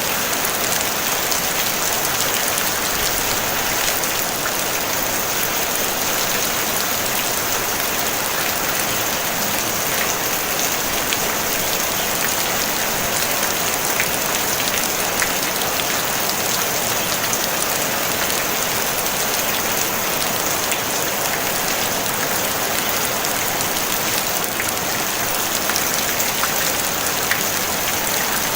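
Steady rain falling on a tin roof: an even, dense hiss of drops, with scattered individual drop hits ticking through it.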